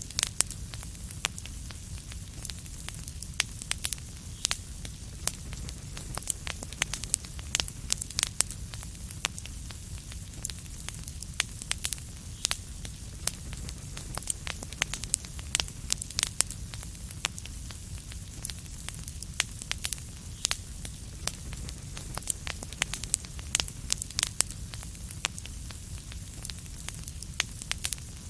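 Wood fire crackling: irregular sharp pops and snaps over a steady low rumble and soft hiss.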